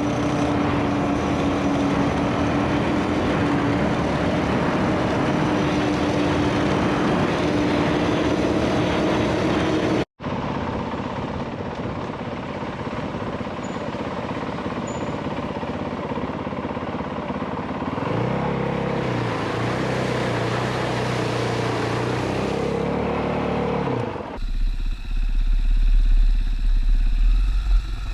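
A single-cylinder 450 cc dual-sport dirt bike being ridden along a dirt road, its engine running steadily under load with road and wind noise. The sound breaks off sharply twice. Near the end a heavy low rumble joins it.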